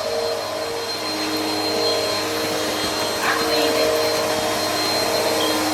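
Vacuum cleaner running steadily on carpet, a constant motor whine over its airflow rush, growing slightly louder.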